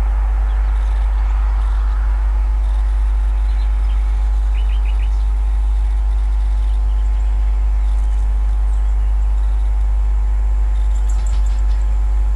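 Small birds chirping: a quick group of three chirps about halfway through and more high chirps near the end, over a steady low rumble with a faint even hum.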